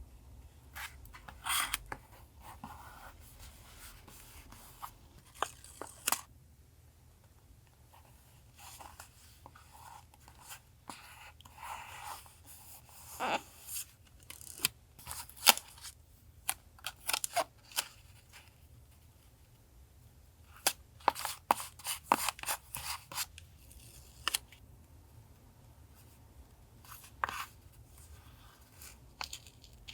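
Paper collage journaling: paper being cut with scissors, torn and handled, in scattered crisp snips and rustles with short pauses between them.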